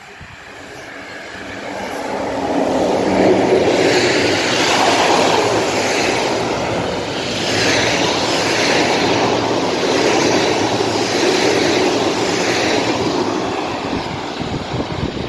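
Locomotive-hauled passenger train passing close by at speed: the rumble and rattle of its coaches' wheels on the rails builds over the first few seconds, runs steady and loud, then begins to fade near the end as the last coach goes away.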